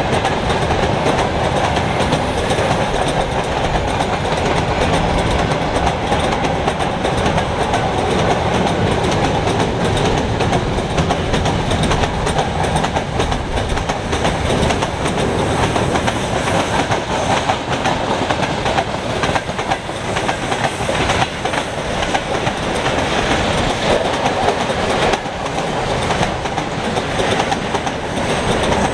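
Mixed freight train rolling past, its wagon wheels clattering over the rail joints in a steady run of clicks.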